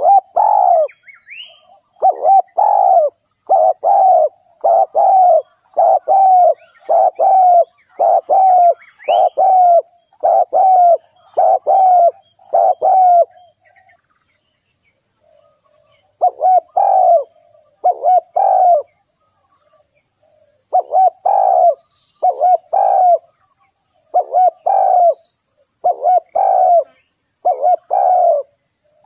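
Spotted dove cooing: a long series of coo notes, more than one a second, pausing twice and starting again. This is a decoy bird calling, used to lure wild doves.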